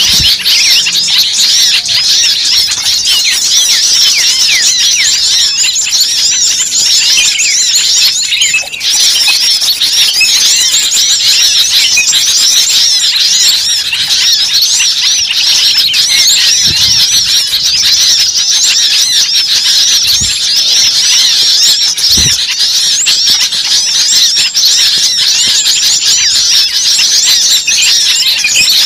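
A dense, continuous chorus of many small birds chirping and squeaking at once, the short high calls overlapping without a break.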